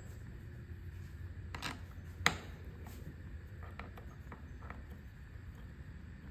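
A few light clicks and knocks of small parts and tools being handled on a chainsaw being taken apart, the sharpest a little over two seconds in, with a few faint ticks after, over a low steady hum.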